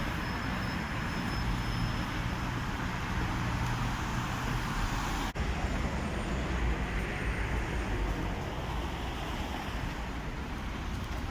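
Steady road traffic noise from passing cars, a continuous low rumble with tyre hiss.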